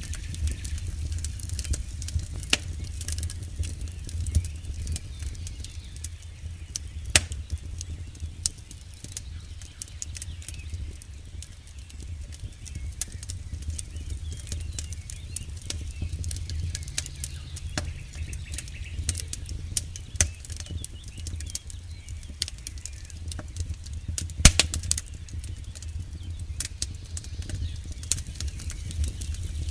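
Campfire burning: a low steady rumble of flames with irregular crackles and sharp pops from the burning wood, the loudest pops about seven seconds in and again near the end.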